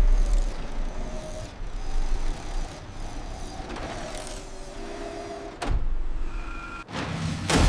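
Animated robot-battle sound effects: a low mechanical rumble with whirring servo-like tones that slide in pitch, and two sharp heavy impacts near the end.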